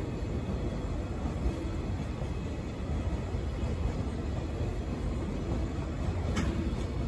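Container freight wagons rolling past on the rails: a steady low rumble of wheels on track, with one brief sharp sound about six seconds in.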